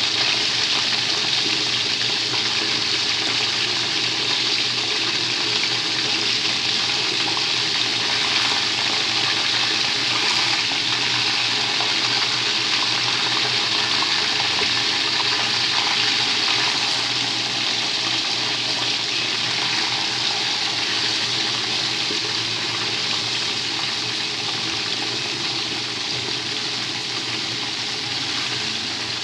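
Chicken wings frying in hot fat in a pan: a steady, loud sizzle that eases a little over the last several seconds.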